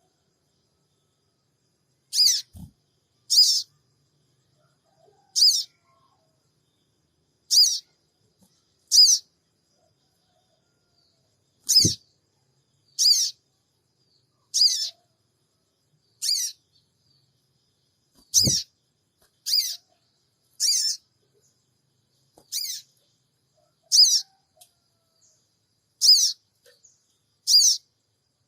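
Sogon bird giving short, sharp, high-pitched "cingik" calls, singly or in quick pairs every second or two. This is a lure call, used to provoke a caged sogon into calling back.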